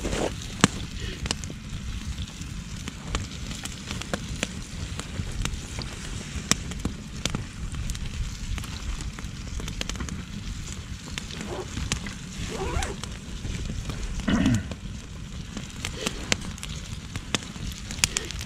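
Wood campfire crackling, with many irregular sharp pops over a steady low rumble of burning. A few faint voices come in briefly about two-thirds of the way through.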